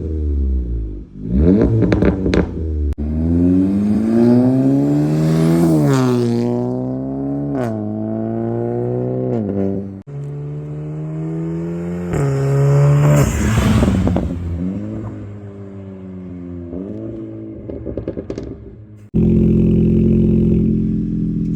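Volkswagen Golf GTI TCR's turbocharged 2.0-litre four-cylinder breathing through an aftermarket Agworks exhaust, accelerating through several gears: the engine note climbs again and again, dropping at each shift. It then eases off with a falling note and sharp cracks and pops, and near the end cuts suddenly to a steady low drone.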